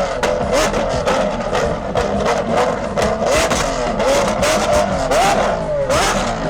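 Lamborghini Aventador SVJ V12 with an aftermarket exhaust being revved over and over, the pitch rising and falling with each blip, with sharp crackles throughout.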